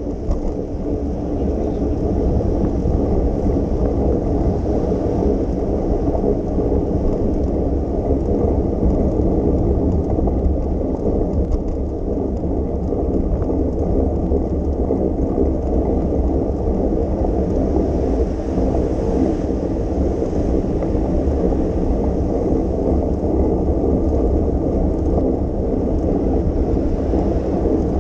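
Steady low rumble of wind on the microphone and tyres rolling over wet pavement from a moving bicycle.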